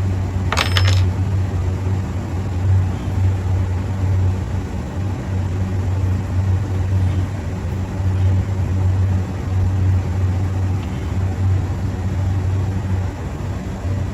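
Steady low machine hum, with a brief metallic clink that rings for a moment about half a second in.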